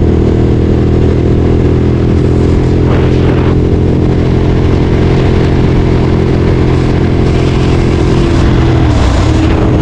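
Ducati Streetfighter 848's L-twin engine running at steady revs under way. Near the end the pitch dips and settles slightly lower, as when easing off or changing gear.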